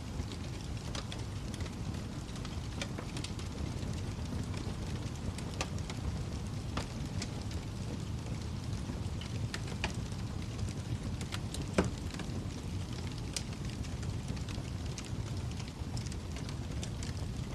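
Wood fire burning in a fireplace: a steady low roar of flames with irregular sharp crackles and pops, one louder pop about two-thirds of the way through.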